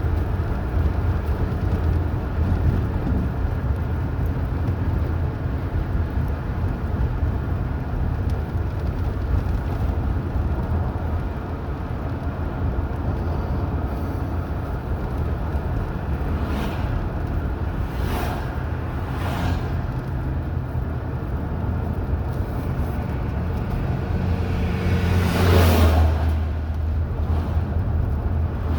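Steady low rumble of a car driving on the highway, engine and tyre noise, broken by a few brief whooshes and a louder whoosh near the end.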